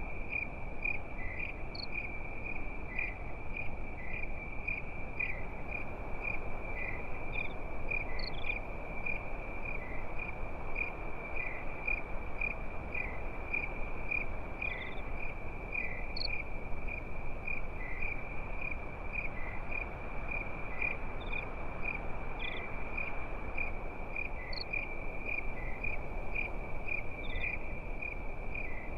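Crickets chirping in a steady, fast pulsing trill, with a few fainter higher chirps now and then, over an even low noise bed from a night-time campfire ambience.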